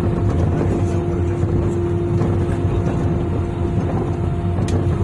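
Airbus A320 cabin noise on the ground just after landing: a steady rumble of engines and airframe with a constant hum running under it.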